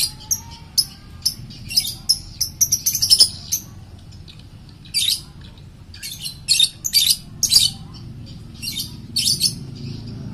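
Short, high-pitched bird chirps, many in quick clusters, with a brief lull near the middle.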